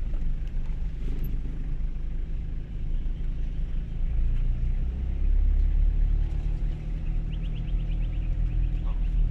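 Two-wheel-drive Toyota HiLux ute driving on an off-road track, with a steady low engine rumble that grows louder about five seconds in. A quick run of high squeaks comes about seven seconds in.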